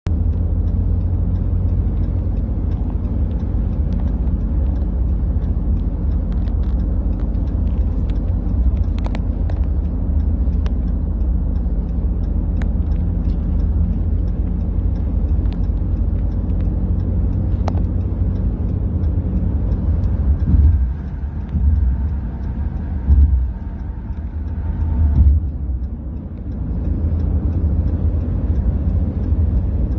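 Ambulances on the road: a steady low rumble of engines and road noise with no siren. The rumble dips and swells a few times in the second half.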